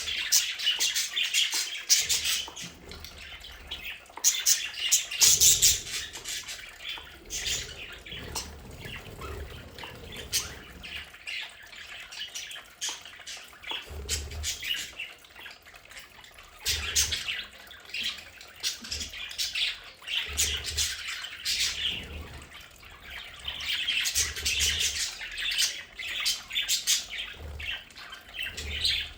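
A flock of budgerigars chattering, with a steady stream of quick chirps, warbles and short squawks.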